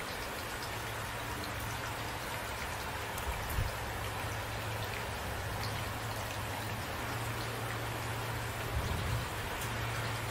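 Steady rain falling, an even hiss of drops hitting a surface, with a steady low hum underneath and two brief low thuds, about a third of the way in and near the end.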